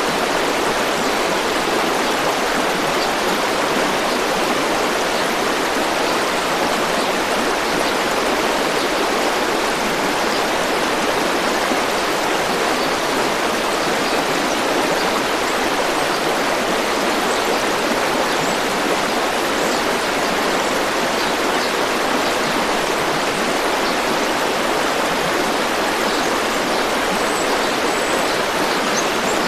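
A river flowing steadily over stones: an even, unbroken rush of water.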